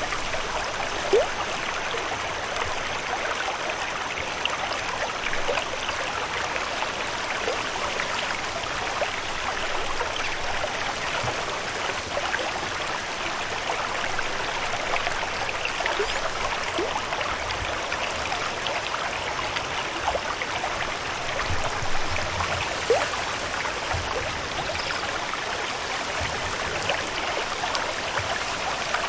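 Steady sound of flowing, trickling water with scattered small plinks, a few of them louder, the first about a second in.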